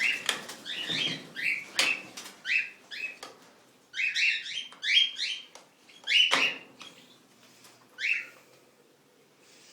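Cockatiels calling: many short, shrill chirps, each dropping in pitch, coming in quick succession and thinning out near the end. A sharp knock about six seconds in.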